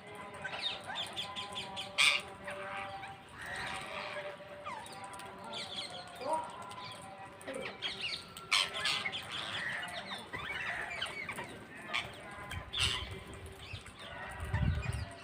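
Several parrots squawking and chattering, with a few sharp, loud screeches standing out among continuous shorter calls. A low rumble comes in near the end.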